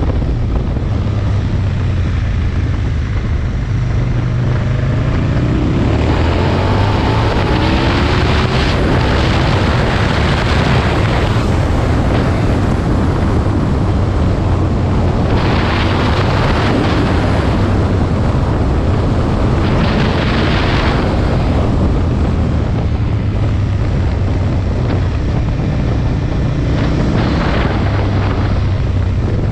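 Aprilia Tuono motorcycle engine running under way, its pitch rising as it accelerates a few seconds in. Wind rush on the microphone comes and goes in several surges.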